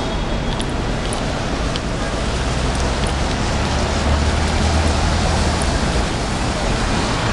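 City street traffic in steady rain: an even hiss of rain and wet road, with a vehicle's low engine rumble swelling about four seconds in.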